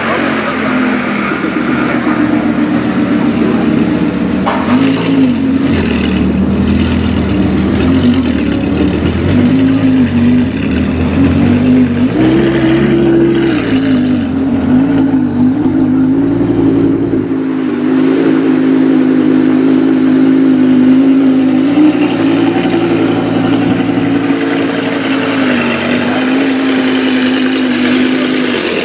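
Lamborghini Gallardo V10 engine in a Batmobile replica idling steadily, with a few light throttle blips that raise the pitch briefly, about five seconds in and again around twelve seconds in.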